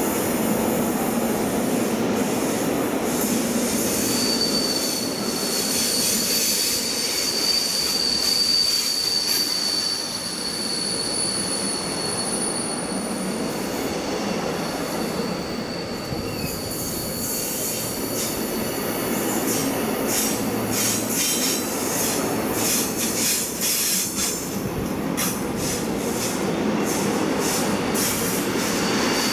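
Container freight train's flat wagons rolling past, a steady rumble and hiss of wheels on rail. A thin, high wheel squeal is held from about four seconds in until just past the middle and comes back at the very end, and a quick run of wheel clicks comes near the end.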